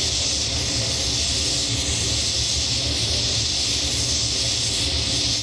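Steam locomotive giving off a steady hiss of steam over a low rumble, cutting off suddenly at the end.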